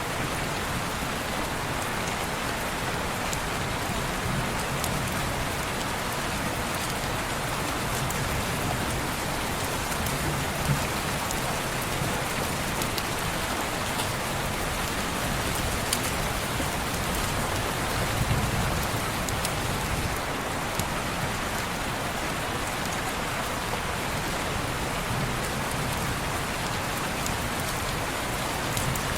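Steady rain falling on window glass: an even hiss with occasional sharp ticks.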